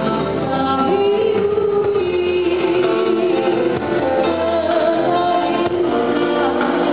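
Live band music with a singer holding one long, slightly wavering note over the band.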